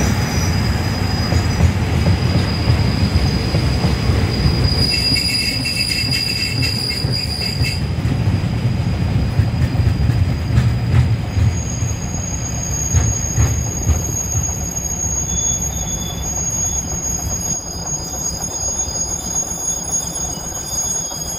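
A Thai railway breakdown train, with wagons and a rail crane car, rolls slowly past on the next track with a heavy wheel rumble and a steady high-pitched wheel squeal. The rumble eases from about halfway as the train draws away, and the squeal shifts to a higher pitch.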